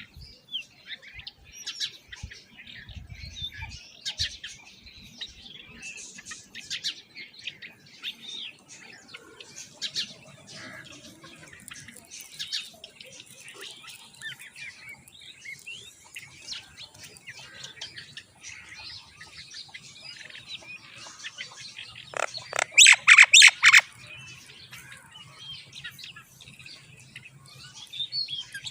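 Baby mynas chirping and squawking at the nest in short, scattered calls, with a loud burst of rapid, harsh begging calls about three-quarters of the way through.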